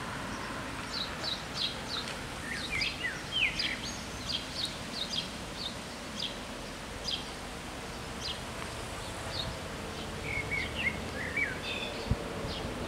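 Small birds chirping over a steady outdoor background hiss: many short, high, quickly falling notes, several a second, with a brief warbling run about three seconds in and again about ten seconds in. A single sharp knock near the end.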